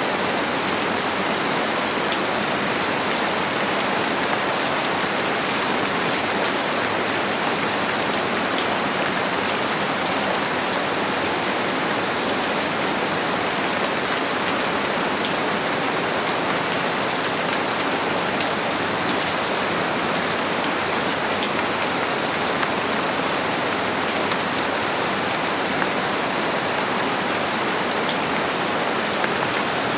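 Steady rain falling, a constant hiss with many fine drop ticks and no thunder.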